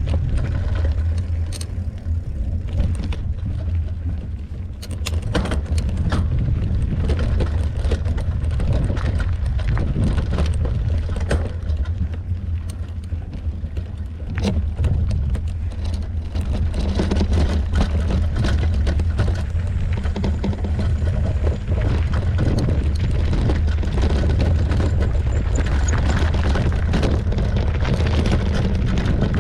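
Mountain bike ridden fast over a rough, rocky trail: a heavy, steady rumble of wind and tyres on the microphone, with frequent clicks and knocks as the bike rattles over loose rocks.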